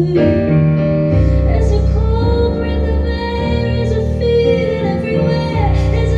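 Live band music with bass and keyboard, and a woman's singing voice over it.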